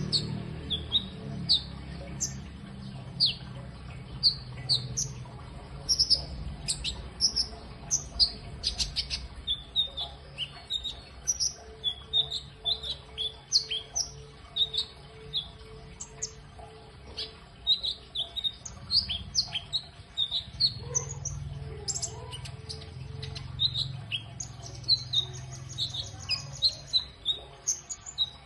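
A songbird singing a fast, varied string of short high chirps and quick whistled sweeps, the kind of song kept as a tutor recording for training other songbirds. A low rumble sits under it, and a run of evenly spaced lower notes joins twice.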